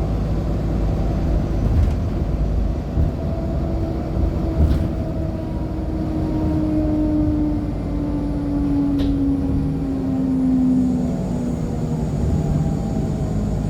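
Onboard a 2014 NOVA LFS articulated hybrid bus with a Cummins ISL9 diesel and Allison hybrid drive: a steady drivetrain rumble with a whine that comes in a few seconds in and slowly falls in pitch. A faint high whistle sits above it, and there are two light knocks.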